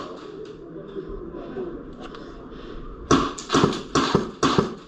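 Airsoft gunfire: after a quiet stretch, a quick run of sharp cracks begins about three seconds in, several shots a second and unevenly spaced.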